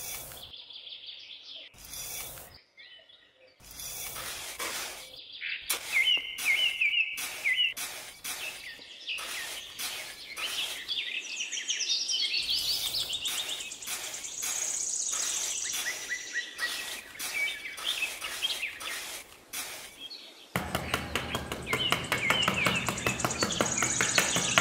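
Birds chirping and calling in quick repeated phrases, with many short clicks or scrapes through it. A denser, louder sound joins near the end.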